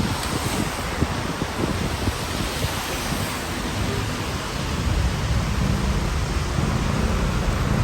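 Steady rain hissing, with a low rumble underneath that grows louder about five seconds in.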